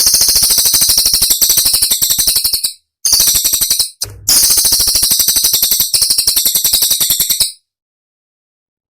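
Cililin song as recorded for masteran training audio: sharp, tightly packed, high-pitched notes in rapid runs. It comes in three phrases with brief breaks and stops about seven and a half seconds in.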